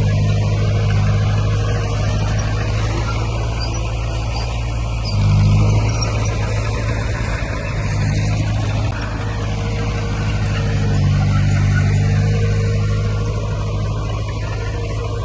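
Heavy diesel earthmoving machinery running steadily under load, its engine note swelling briefly about five seconds in and again around eleven seconds.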